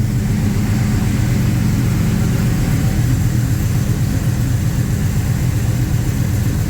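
Two car engines idling together, a loud, steady low exhaust rumble with no revving.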